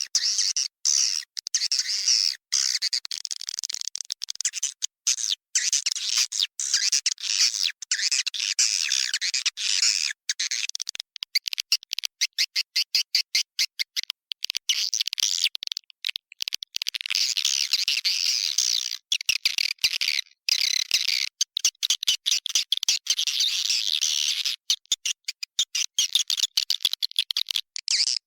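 Edible-nest swiftlets' roosting call ("inap"), the lure sound played in swiftlet nesting houses: a dense, high-pitched chattering twitter of many birds, broken up by rapid runs of short chips.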